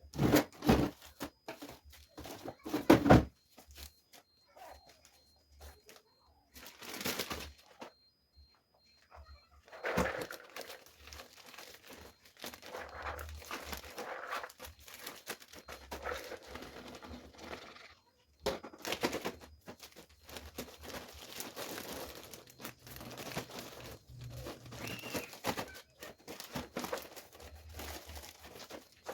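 Plastic bags and wrapping crinkling and rustling as food is handled, with a few louder knocks in the first few seconds.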